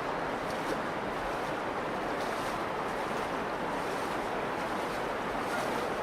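Steady rushing of the Virgin River's flowing water.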